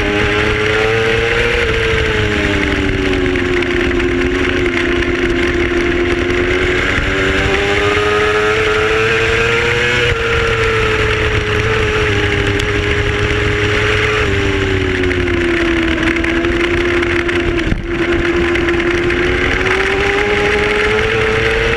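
Racing motorcycle engine at high revs, its pitch rising and falling smoothly as the throttle opens and closes, with a few sudden steps in pitch at gear changes and a brief drop in sound near the end. A steady rush of wind noise runs under it.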